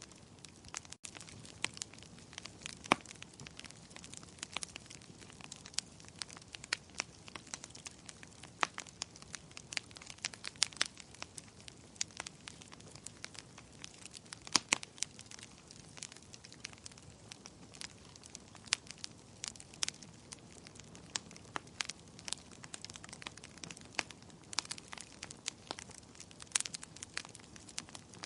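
Wood fire crackling: dense, irregular sharp pops and snaps over a soft low hiss of burning.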